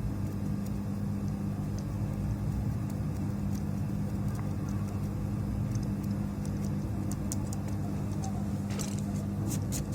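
Steady low hum with a few faint light clicks near the end.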